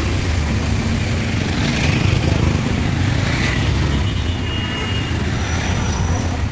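Motorcycle engine running steadily at idle while its carburetor is adjusted by hand, test-running after the carburetor was washed and refitted.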